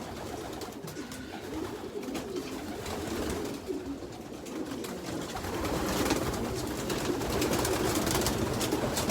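A loft full of young racing pigeons cooing, many birds at once in overlapping low warbles, growing louder in the second half, with scattered sharp taps near the end.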